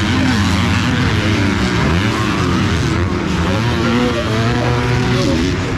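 Several 250cc four-stroke motocross bikes racing past, engines revving hard, with their pitch rising and falling and overlapping throughout.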